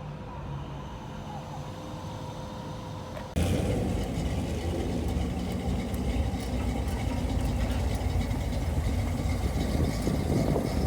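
Motor vehicle engine noise: a steady low hum at first, then after an abrupt jump about three seconds in, a louder low rumble.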